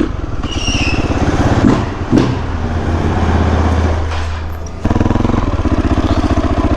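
Motorcycle engine running at low revs with a fast, even pulse. It gets suddenly louder about five seconds in.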